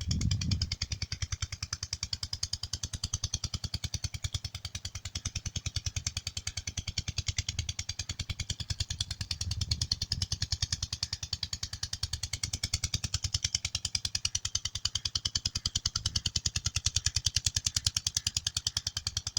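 Diesel water-pump engine running steadily, its exhaust beating evenly at about ten pulses a second.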